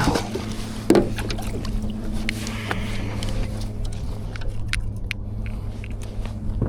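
A boat's motor running with a steady low hum, with a knock about a second in and scattered light clicks.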